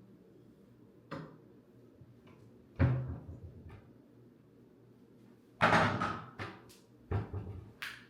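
A series of sudden household knocks and thuds, with the loudest about three seconds in and a cluster around six seconds.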